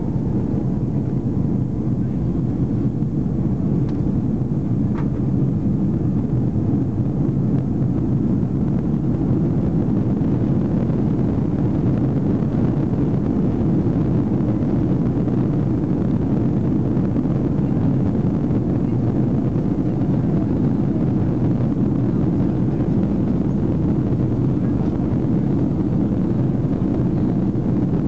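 Airbus A330-200 jet engines running at high takeoff power, heard from inside the passenger cabin as a loud, steady, deep rumble.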